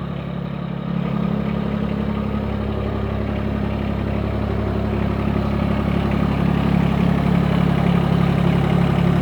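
Mahindra eMAX 20 tractor's three-cylinder Yanmar diesel idling steadily, getting gradually a little louder.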